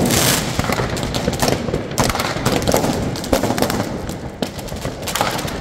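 Fireworks and firecrackers going off all around: many sharp bangs and crackles in quick, uneven succession, loudest right at the start.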